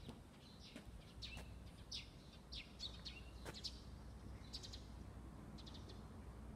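Faint birds chirping: short high calls scattered throughout, with quick rapid trills about four and a half and five and a half seconds in, over a low steady background hum.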